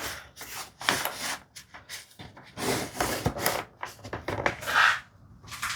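Wooden tambour slats and a plywood jig being handled: a run of irregular short scrapes and knocks of wood on wood, with a longer, louder scrape near the end.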